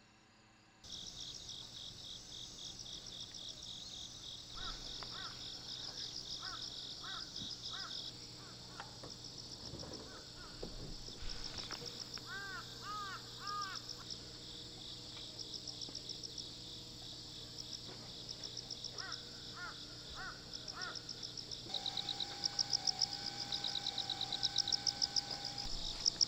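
Insects chirping in a dense, high, rapidly pulsing chorus that cuts in abruptly about a second in and grows louder, with sharp rhythmic pulses near the end. Short rising-and-falling chirping calls come in a few clusters in the middle, and a steady whistling tone joins near the end.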